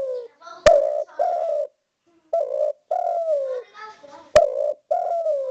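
Spotted dove (derkuku) cooing in repeated phrases of short coos, the phrases ending in a longer note that slides down in pitch. Two sharp clicks cut in, about a second in and again near the end.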